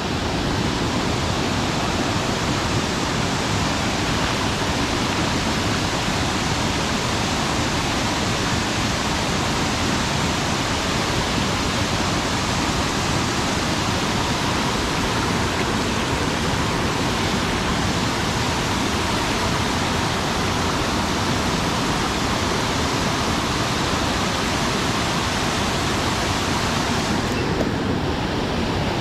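Mountain stream water rushing steadily, a loud, even wash of noise with no breaks.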